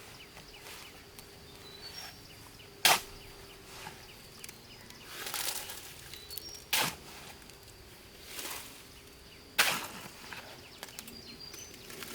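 Three sharp knocks about three seconds apart, stone set down on stone, with softer scraping and shuffling between them and faint bird chirps behind.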